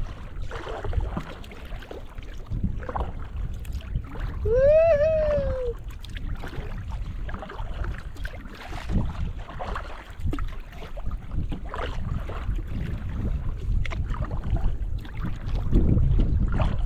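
Kayak paddling: paddle blades dipping and splashing in the water, with wind rumbling on the microphone that grows louder near the end. About five seconds in, a single drawn-out call rises and then falls in pitch.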